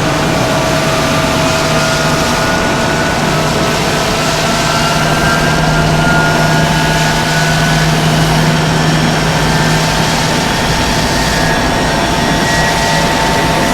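An engine running loud and steady, its dense noise carrying a few held tones, some of which drift slowly up in pitch.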